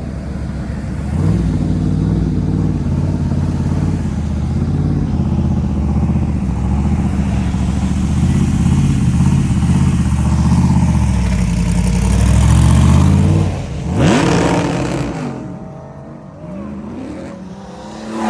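A car engine running loud and revving as the car pulls away, its pitch rising and falling for about twelve seconds. A sharp rev comes near the end, then the sound drops away.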